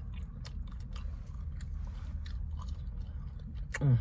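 A person chewing fried chicken wings with the mouth close to the microphone: a run of small wet clicks and smacks over a steady low hum. Near the end a brief, loud, falling vocal sound cuts in.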